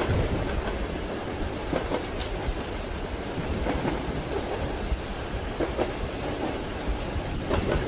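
Ambience of a moving train carriage: a steady low rumble of the wheels on the rails under the hiss of rain on the windows, with scattered faint clicks.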